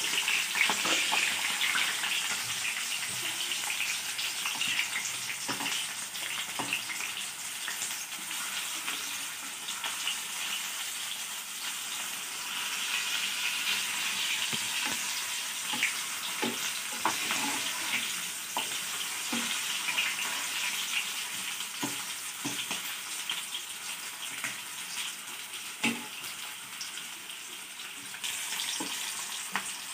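Slices of elephant foot yam sizzling steadily as they fry in hot oil in a pan. Occasional short clicks and scrapes come from a metal skimmer turning the pieces.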